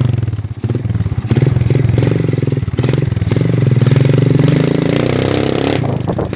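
Motorcycle engine running hard at low speed, cutting out and picking up again several times as the throttle is opened and closed, with the bike clattering and a few knocks near the end.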